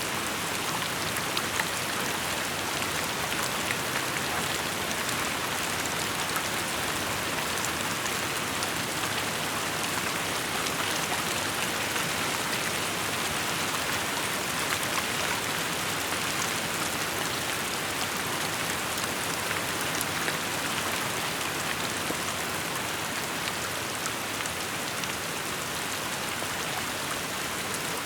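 Steady rainfall, a dense even hiss of rain with scattered individual drops ticking on surfaces.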